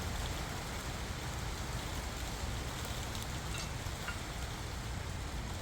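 Steady noisy background hiss and rumble, with a few faint light clicks from small brake parts being handled.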